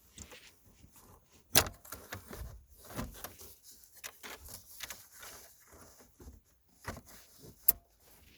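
Scattered clicks, taps and rattles of tools and parts being handled while working on a car's shifter assembly, with two sharper knocks, one about one and a half seconds in and one near the end.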